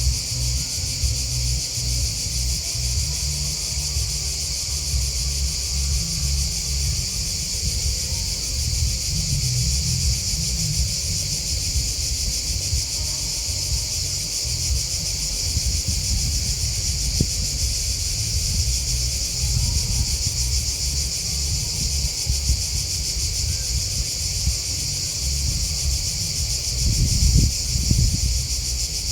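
A steady, high-pitched chorus of chirping grasshoppers and crickets, with an uneven low rumble underneath that swells briefly near the end.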